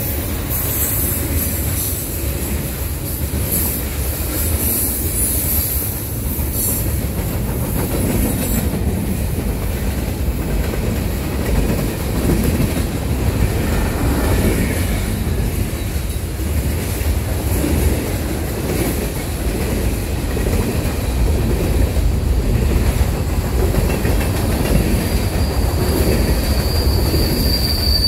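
Freight train of tank cars and covered hopper cars rolling past close by: a steady rumble of steel wheels on rail. Near the end a high, steady wheel squeal sets in.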